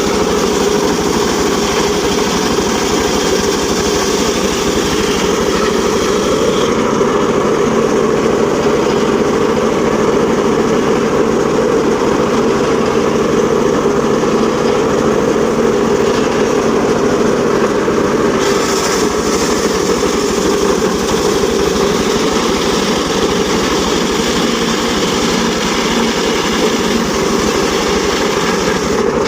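Engine-driven mobile circular sawmill running steadily, a continuous loud machine noise with only slight shifts in its upper pitch.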